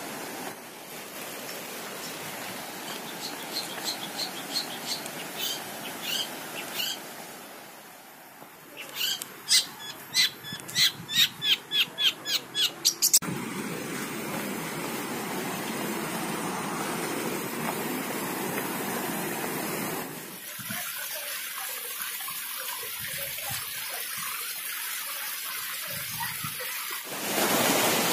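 Steady rush of waterfall water with a bird calling over it: soft repeated notes at first, then a loud run of about ten sharp notes at two or three a second. The water sound shifts abruptly twice.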